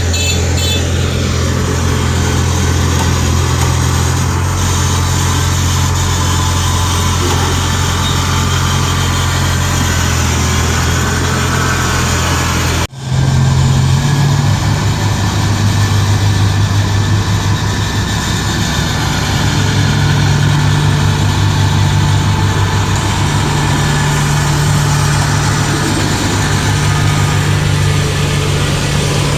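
Tractor's diesel engine running steadily. About thirteen seconds in the sound cuts out for an instant and resumes at a slightly different pitch.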